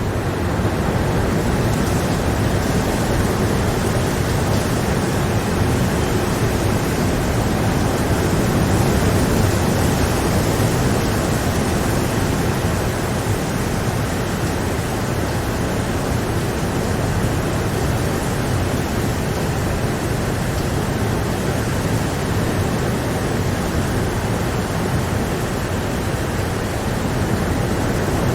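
Steady rain falling: an even, unchanging wash of noise.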